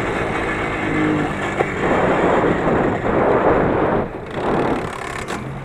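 20 hp motorcycle engine running as the bike rides along a rough forest track with wind on the microphone, then losing power and dying away from about four seconds in. The stall comes from a loss of ignition spark, which the owner later traced to a faulty ignition sensor.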